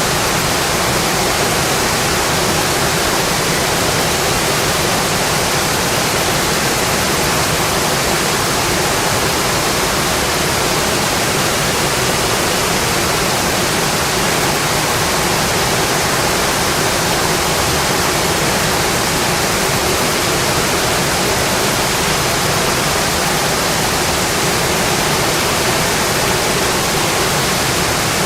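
Steady rain, an even hiss with no single drops or crackles standing out.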